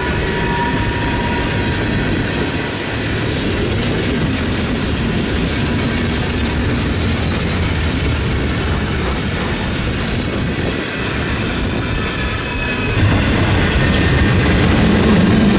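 A train rolling by on the rails with a steady rumble of wheels, a faint thin high squeal held for a few seconds in the second half, and the sound growing louder near the end.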